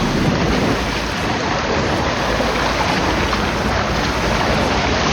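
Fast-flowing mountain stream water rushing steadily and loudly close by, with some wind on the microphone.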